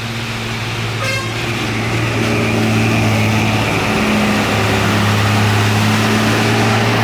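Heavy truck engine running hard with a steady low drone, growing louder as it labours up the hill; a brief high-pitched tone sounds about a second in.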